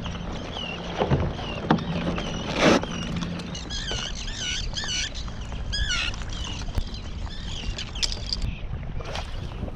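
A flock of seabirds calling over a fish blitz, many quick rising-and-falling calls one after another, over a steady hiss of wind and water. A few sharp knocks in the first three seconds, the loudest close to three seconds in.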